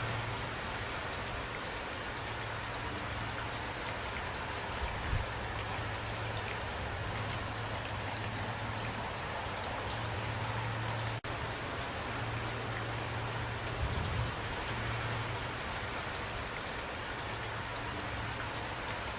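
Steady rain: an even hiss with a few heavier drops landing as dull low thuds. The sound cuts out for an instant about eleven seconds in.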